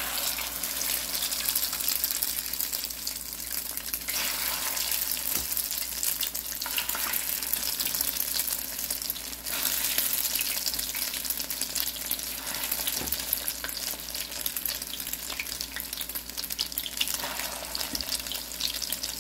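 Egg-coated pumpkin flowers frying in hot oil in a pan: a dense crackling sizzle that starts suddenly as the first flower goes into the oil and then keeps up steadily.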